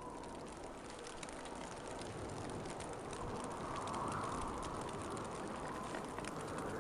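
Winter wind blowing steadily, swelling into a stronger gust about four seconds in, with a fine scatter of light ticks throughout.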